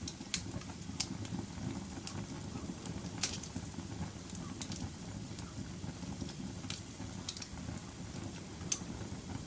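Wood fire burning: a steady low rumble of flames with sharp crackles and pops about once a second, the loudest about three seconds in.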